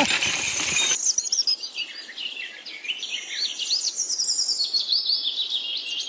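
Birds chirping and twittering: a dense, continuous run of quick, high-pitched chirps that sweep up and down in pitch.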